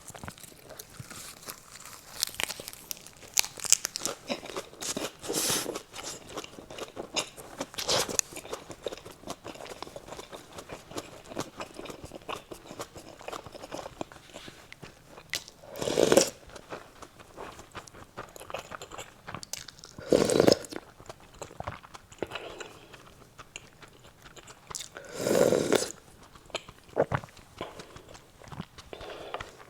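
Close-miked eating sounds: chewing and crunching bites of braised kimchi and pork, with a stream of small wet clicks. Three louder, longer mouth sounds stand out, about 16, 20 and 25 seconds in.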